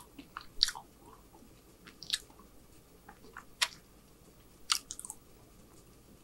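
A man chewing food close to the microphone: short wet mouth clicks and smacks about every second and a half, with a quick cluster of smaller ones near the end.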